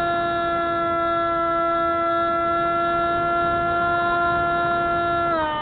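Spyhawk FPV plane's electric motor and propeller whining at a steady high pitch, which drops in a step near the end.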